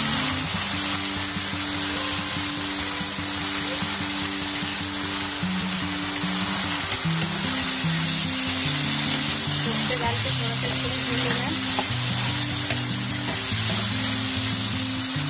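Spiced tomato-and-yogurt masala gravy sizzling in a frying pan as a spatula stirs koftas through it. Background music plays a line of low, held notes over it.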